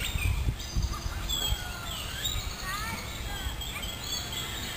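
Birds chirping, with many short whistled calls rising and falling in pitch, over steady low background noise.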